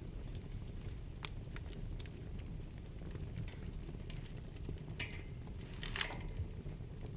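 Wood fire burning in a fireplace: a steady low rumble of flames with scattered crackles and pops, and two louder pops about five and six seconds in.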